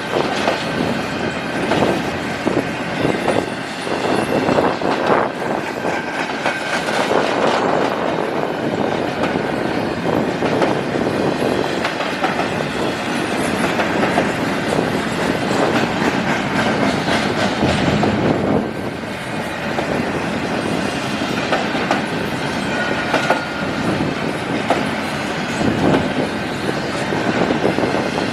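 Canadian National intermodal freight cars rolling past, their wheels clicking steadily over the rail joints, with a thin high wheel squeal running underneath.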